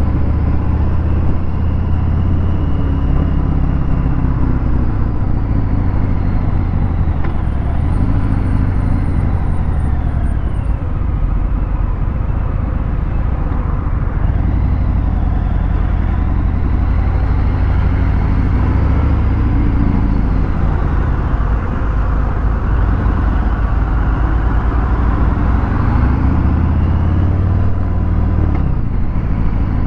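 A Harley-Davidson Fat Bob 114's Milwaukee-Eight 114 V-twin runs through a Vance & Hines Hi-Output 2-into-1 exhaust while riding in traffic. The engine note rises and falls in pitch several times as the bike speeds up and slows.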